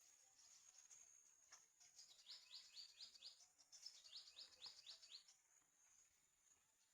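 Faint bird call in rainforest: two runs of about five quick, sharp high notes each, around two and four seconds in, over a steady high-pitched hum.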